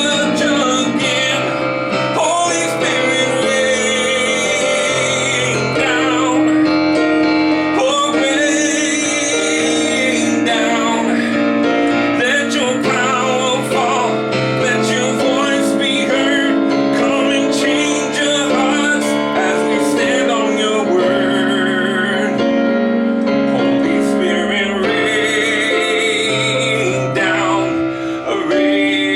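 A worship song in F major played with piano chords and sung, with singing voices over steady sustained piano.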